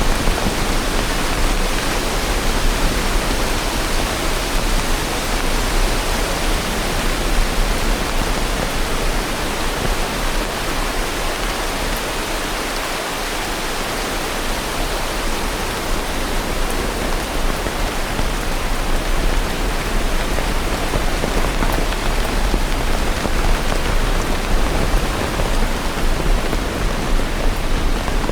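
Steady, heavy rain falling: a dense, even hiss of drops with no distinct individual impacts.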